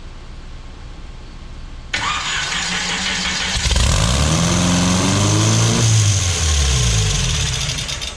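GM 3.0-litre inline-four engine in a mini rail dragster, cranked by the starter from about two seconds in and catching a second or so later on fuel poured down the carburetors. Its first start after the build: it fires right up, revs, and then its speed falls away near the end.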